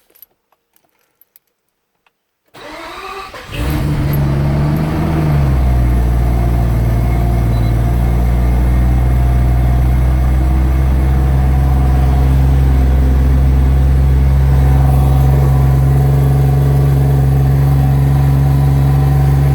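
Cold start of a Mazda Cosmo's rotary engine, started without touching the accelerator after sitting all night. After a few faint clicks the starter cranks for about a second, the engine catches, its revs flare up and drop back, and from about five seconds in it idles steadily.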